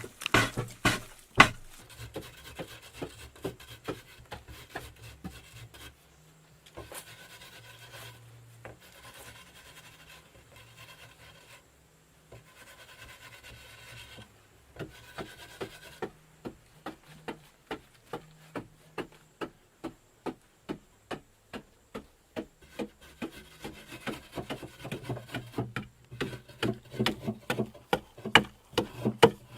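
A hand tool working wood in repeated rubbing or scraping strokes, about two a second. A few longer rasping strokes come midway, and the strokes grow louder near the end.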